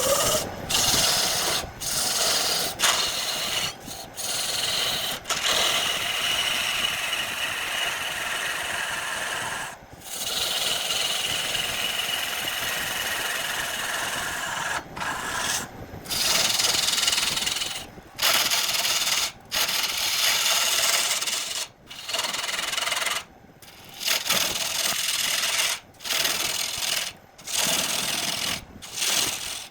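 Abrasive rubbing on wood: stretches of scraping noise broken by short, abrupt gaps every second or two.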